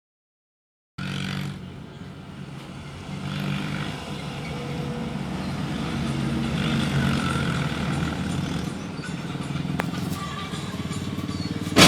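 Tractor diesel engine running steadily and slowly getting louder, with a sudden loud crash-like bang right at the end.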